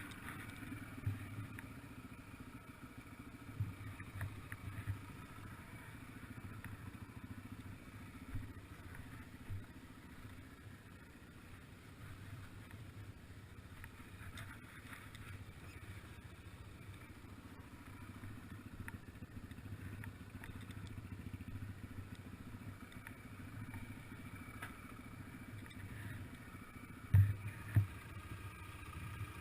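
Yamaha TTR-125LE dirt bike's small single-cylinder four-stroke engine running steadily and faintly, with two sharp knocks near the end.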